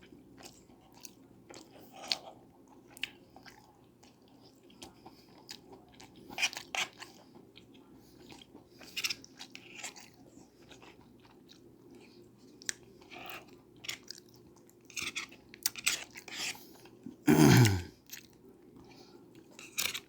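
Close-miked chewing of a man eating a meal: wet mouth clicks and soft crunches at irregular intervals. About 17 seconds in comes one loud, short vocal sound that falls in pitch.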